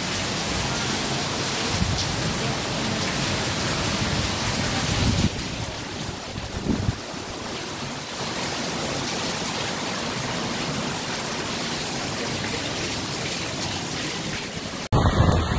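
Heavy rain pouring down steadily, a dense even hiss of water, with a few low thumps of wind on the microphone. Near the end it cuts off abruptly into a louder, rougher rushing sound.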